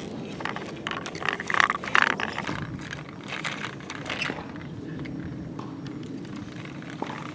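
Plastic toy construction truck being pushed over dirt, scraping and rattling, over a steady low rumble. The scraping is busiest in the first two seconds.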